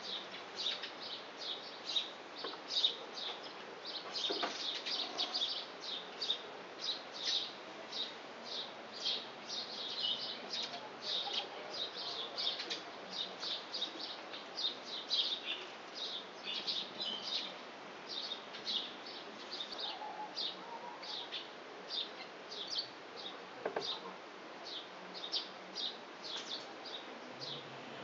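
Small songbirds chirping busily: a dense, unbroken stream of short high chirps, several a second, from more than one bird.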